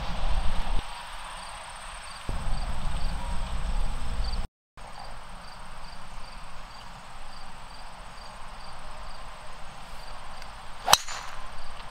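Wind buffeting the microphone at first, then insects chirping steadily in a faint, even rhythm. About a second before the end comes a single sharp crack of a golf club striking the ball, a clean, solid hit.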